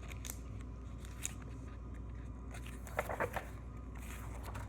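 Faint handling of a picture book's paper pages: a few soft clicks and a brief rustle about three seconds in, over a low steady hum.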